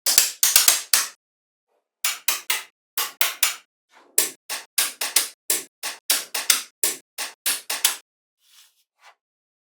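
A rapid run of short, sharp clicks or taps, several a second, with a pause about a second in, then a steady string of them that stops about eight seconds in.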